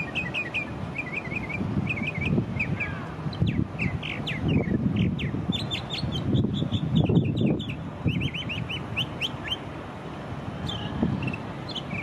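Northern mockingbird singing: rapid series of short, sharp notes, each kind repeated several times before switching to another, the varied song that mixes in copies of other birds' calls. A low rumble runs underneath, swelling now and then.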